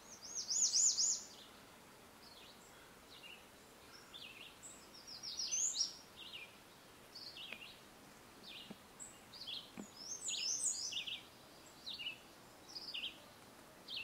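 Songbirds chirping and singing: quick runs of high, down-slurred notes near the start and again about five seconds in, with scattered single chirps in between. A faint steady hiss lies underneath.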